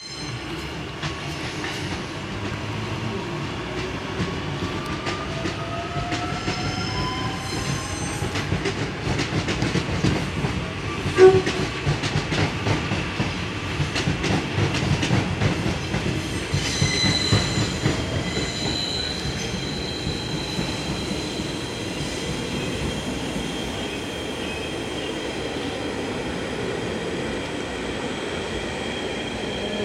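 Queensland Rail electric Tilt Train pulling away, its motors giving a whine that rises in pitch as it gathers speed. Then comes a run of wheel clicks and clatter with one sharp bang about eleven seconds in, some high tones a few seconds later, and a steadier rolling rumble after that.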